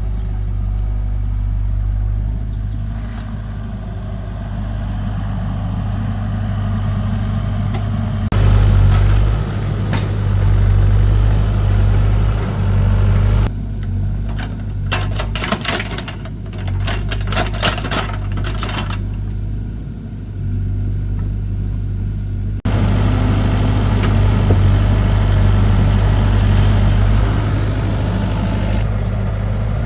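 Excavator engine running steadily, its level rising and falling as the machine works. A run of rapid knocks and clatter comes about halfway through.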